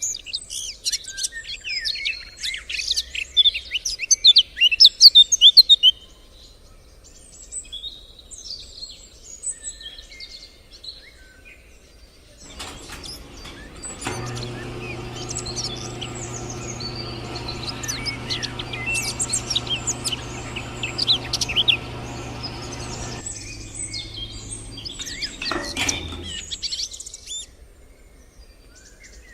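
Small birds chirping and calling, busiest in the first few seconds and again near the end. In the middle a steady, even-pitched hum, like a small motor running, goes on for about ten seconds under the chirps.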